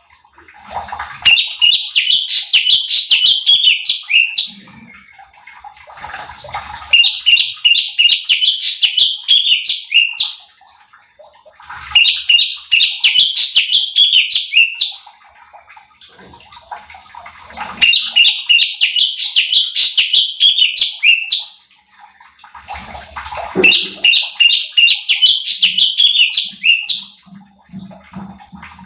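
Cucak cungkok singing in repeated phrases: a fast run of bright notes lasting about three seconds, each phrase closing on a sharp upswept note, with pauses of about two seconds between the five phrases.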